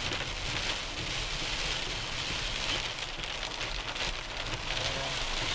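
Heavy rain drumming steadily on a car's roof and windshield, heard from inside the cabin of a moving car, with a low road rumble underneath.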